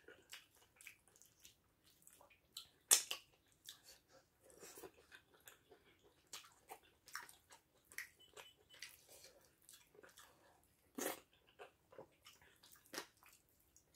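Close-miked chewing of soft fufu and egusi soup: an irregular run of short wet mouth clicks and lip smacks, with two louder smacks standing out.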